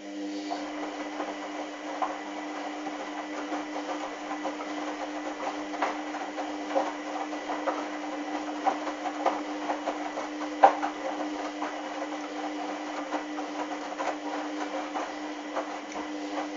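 Hoover washing machine's motor turning the drum during the wash, a steady whirring hum with irregular light knocks and clicks from the wet towels tumbling; it runs for about sixteen seconds, then stops near the end.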